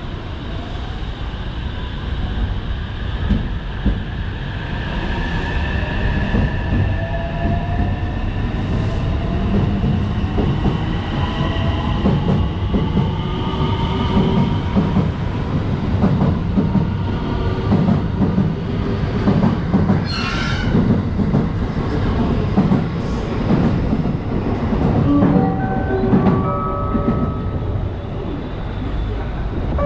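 Electric train moving along the station platform. Its motors whine in gliding pitches and its wheels clack rhythmically over the rail joints, with a short high-pitched burst about two-thirds of the way through. Short steady electronic tones start near the end.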